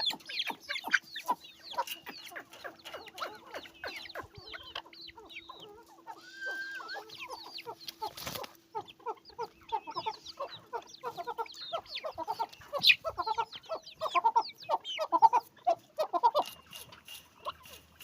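A group of parrot-beak chicken chicks calling: many short, overlapping peeps and clucks throughout, with a faint steady hum under them for the first twelve seconds or so and a single sharp click about halfway.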